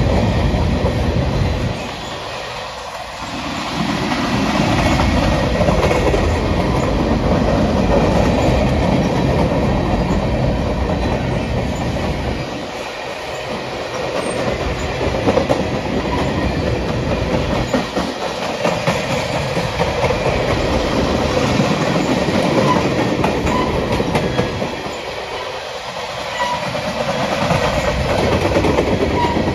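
Freight cars, mostly tank cars, rolling steadily past on steel wheels, with a continuous rumble and clatter of the wheels on the rails.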